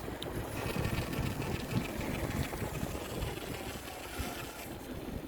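Wind buffeting the microphone while riding a bicycle, a steady, uneven low rumble.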